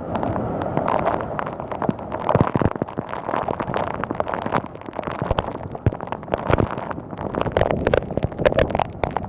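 Thunderstorm wind and heavy rain buffeting the microphone: a loud, uneven rush broken by many sharp, irregular pops.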